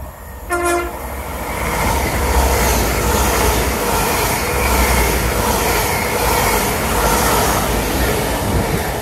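A train gives one short blast of its horn, then passes close by, loud and steady for several seconds with a low drone and a regular clatter of wheels, fading near the end.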